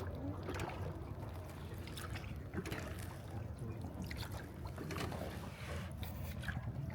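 Water trickling and splashing around a small hand-rowed wooden boat as the oars dip and pull through the water, soft and irregular.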